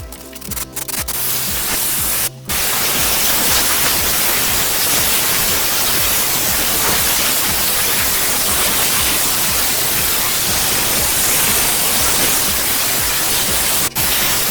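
Steam cleaner jetting steam with a steady, loud hiss, cut off in short spurts at the start, stopping briefly a couple of seconds in and once more for a moment near the end.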